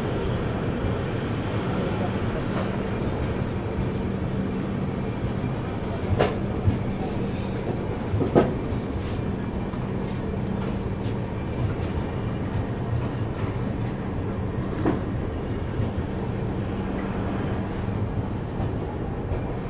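Passenger express train pulling slowly out of a station, heard from an open coach doorway: a steady rumble of the coaches running on the rails. A few sharp wheel clacks come about six and eight seconds in, and again near fifteen seconds.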